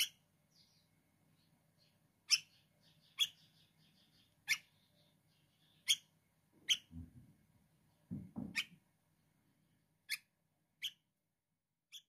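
Fledgling bird giving short, sharp chirps, about ten of them at irregular intervals, as a hungry young bird does. A few low thumps between about 7 and 8.5 seconds in.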